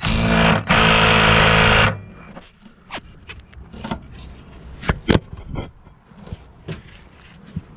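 Ryobi P263 brushed cordless 3/8-inch impact wrench running loudly for about two seconds, with one short break near the start, then scattered clicks and knocks of handling.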